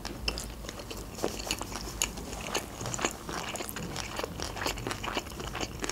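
A mouthful of sushi roll being chewed close to the microphone: irregular wet clicks and crunches, several a second.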